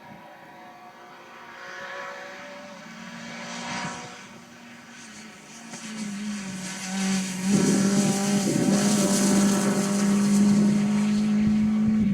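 Rally car approaching at speed: its engine is faint at first, grows louder from about halfway and is loud and held steady near the end, with a hiss of tyre and air noise over it.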